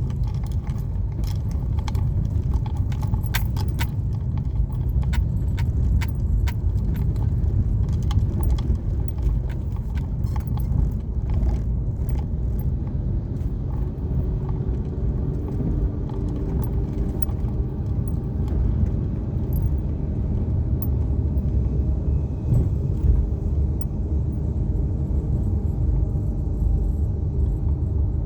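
Car driving along a highway: a steady low road and tyre rumble, with many sharp clicks and rattles through the first half.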